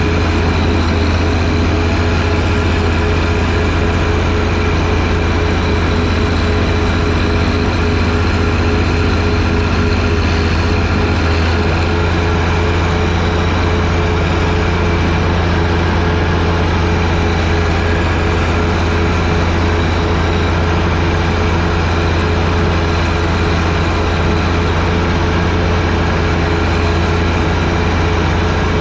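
John Deere 1025R sub-compact tractor's three-cylinder diesel engine running at a steady speed, a constant low drone with no change in pitch, while it drives the front snowblower.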